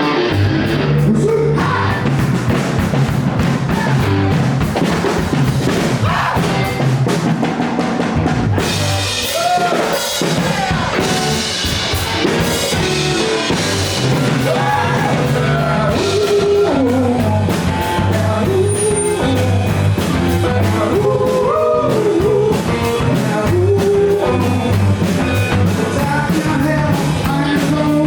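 Live rock band playing: drum kit, bass and electric guitar at full volume, with singing over the steady beat.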